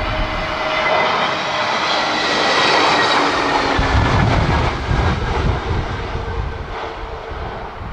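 Jet airliner on approach passing close overhead: a loud engine roar with a whine that falls slightly in pitch as it goes by, loudest about three seconds in. From about halfway through, gusty wind buffets the microphone.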